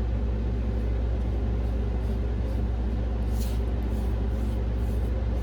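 Steady low background hum with several steady low tones, unchanging throughout, and a faint short swish about three and a half seconds in.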